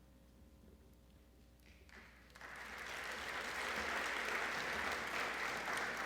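Audience applauding, starting about two seconds in and swelling over the next two seconds.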